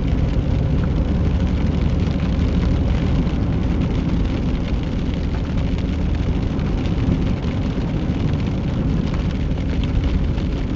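Car driving on a snowy road, heard inside the cabin: a steady low rumble of engine and tyre noise.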